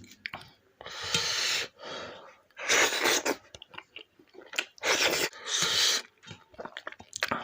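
Close-miked eating: wet chewing and mouth clicks, broken by four or five loud, hissing slurps or sucked-in breaths of about half a second each.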